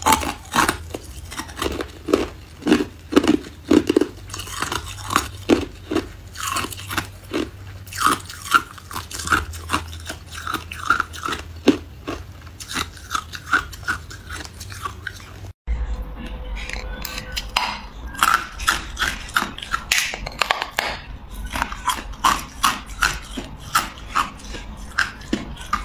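Ice being bitten and chewed close to the microphone: a rapid run of sharp, crisp crunches, about two a second, with a brief break about two-thirds of the way through.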